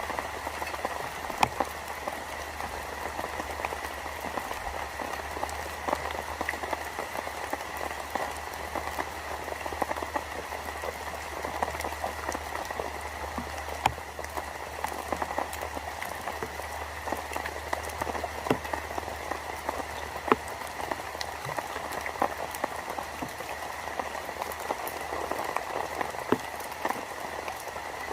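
Steady rain falling, with many scattered sharper drop ticks throughout.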